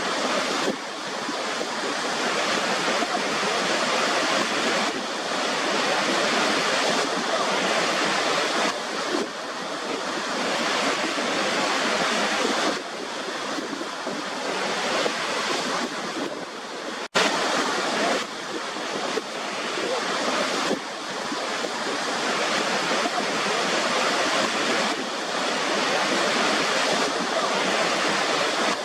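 Waterfall water rushing in a steady, dense wash that swells and eases slightly, with one split-second break a little past halfway.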